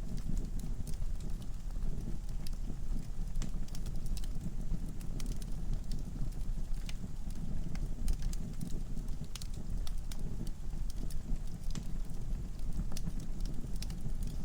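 Wood fire burning in a fireplace: a steady low rumble of the flames with frequent, irregular sharp crackles and pops from the logs.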